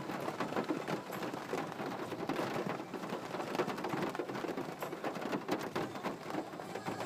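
Steady rain falling, a dense hiss made up of many separate drop hits on a surface.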